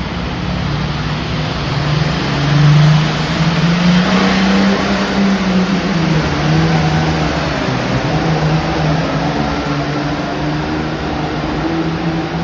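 Turbocharged diesel farm tractor pulling a sled at full throttle, its engine note climbing over the first few seconds and then holding, wavering a little as it pulls.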